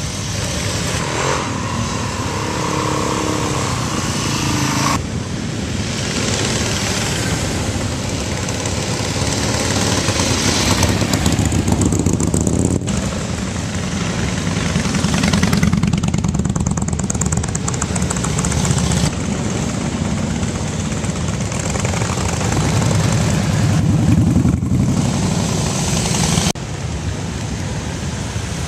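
Motorcycle engines running and riding past, the rumble swelling and fading several times as bikes go by.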